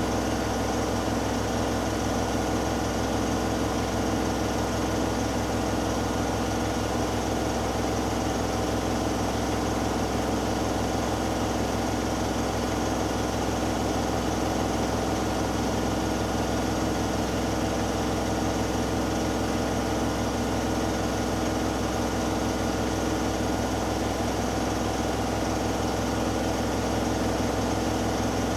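Hoover Dynamic Next washing machine drum spinning steadily at high speed during its final spin, the motor running with a constant hum and whine.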